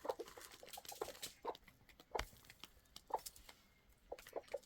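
Domestic chickens clucking in short, scattered calls, with a few sharp taps in between, the loudest about two seconds in.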